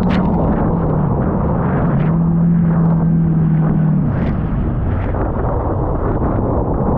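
Jet ski engine running under way over a loud rushing noise; its pitch dips and holds steady, then drops off about four seconds in as the throttle eases.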